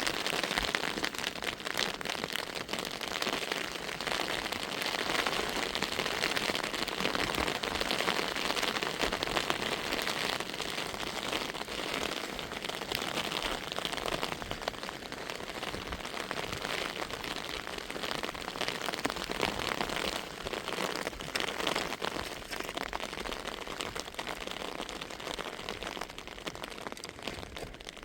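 Rain falling steadily, a dense patter of drops hitting a surface, easing slightly in the last part.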